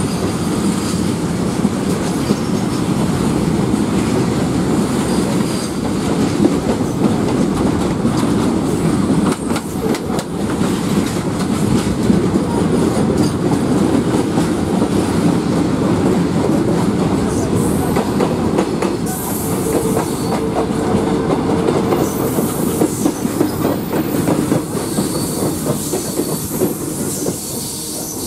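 Indian suburban electric local train running fast, heard at close range from an open coach window, with a freight train of covered wagons rolling past on the next track: a steady heavy rumble with rapid clattering of wheels over rail joints and a few thin squeals. Near the end the freight wagons have gone by and the rumble eases slightly.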